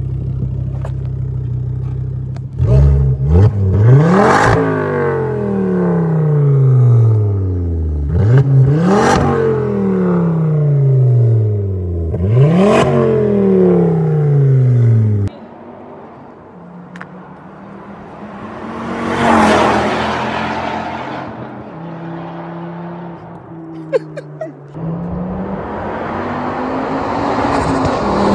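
Stage 3 tuned Volvo S40 T5's turbocharged five-cylinder engine idling, then revved hard three times, each rev climbing sharply and falling back to idle. After an abrupt cut the car passes by at speed, its engine note rising then falling, and another pass builds near the end.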